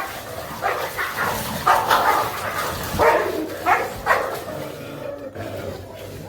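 Male dogs fighting over a female in heat, barking in a run of short, rough bursts for about four seconds before it dies down.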